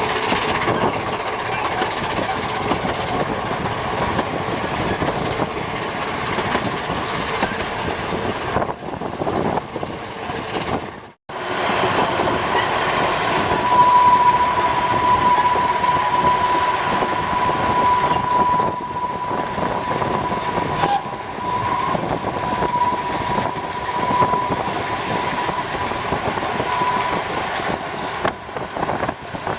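Narrow-gauge train running, a steady rumble and clatter. About a third of the way in the sound cuts out for a moment. Later a long, steady high-pitched tone sounds for over ten seconds over the running noise.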